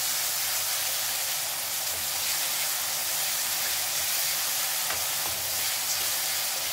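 Chopped onions, tomatoes and green chillies sizzling in ghee in a kadai while being stirred with a wooden spatula: a steady frying hiss.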